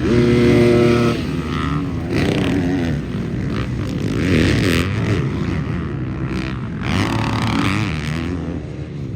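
Several motocross dirt bikes racing past, their engines revving up and falling off again and again. The loudest bike passes close in the first second.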